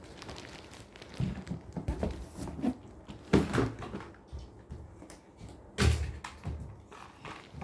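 A few dull thumps and knocks at uneven intervals, the loudest about three and a half and six seconds in.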